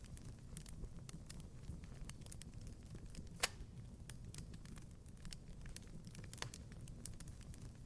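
Wood fire crackling: irregular sharp pops and snaps over a low steady rumble, with one louder pop about three and a half seconds in.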